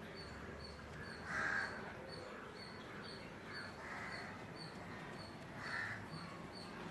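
Harsh bird calls repeated every second or two, the loudest about a second and a half in, over a steady low background.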